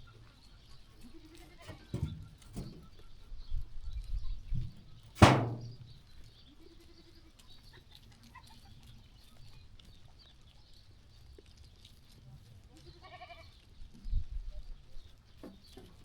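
Sheep moving about: low thumps and shuffles, with a sharp knock about five seconds in as the loudest sound. A short, low call comes a couple of seconds later, and a clearer bleat comes late on.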